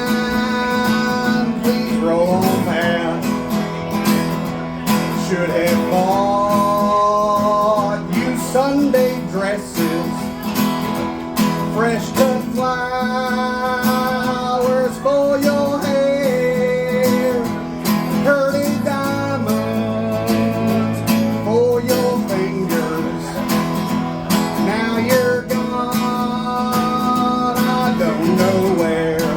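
Live country band playing an instrumental break: a strummed acoustic rhythm guitar under a lead instrument carrying the melody with sliding, bent notes.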